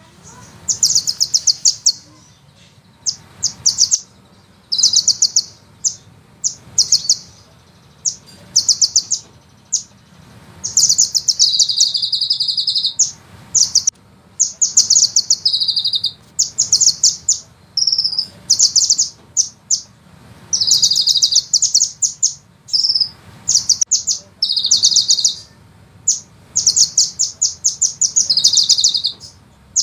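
Sunbird singing a fast, high, rolling trill in repeated bursts of half a second to two seconds, some bursts dropping to a lower note at the end.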